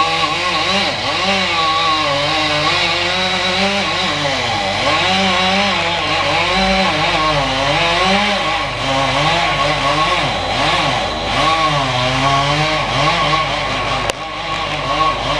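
Large chainsaw cutting through the trunk, its engine pitch rising and falling as it works under load. Under it runs a steady low engine drone.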